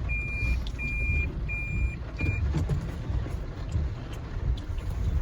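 A high electronic warning beep repeating about every 0.7 s, four times with the last one cut short, stopping about two and a half seconds in, over a steady low rumble.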